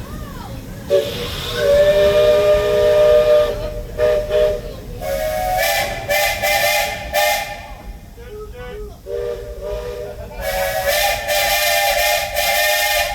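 Steam locomotive's chime whistle blowing several long blasts, a chord of tones with a loud hiss of escaping steam. The blasts alternate between a lower and a higher-pitched chord.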